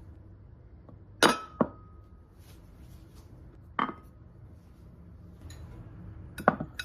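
Dishes clinking as they are handled and set down during washing-up: a pair of sharp knocks a little over a second in, one near the middle and another pair near the end, some leaving a short ring.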